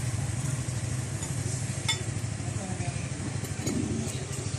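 A small motorcycle engine running steadily at idle, with light metallic clinks of tools and parts, the sharpest about two seconds in.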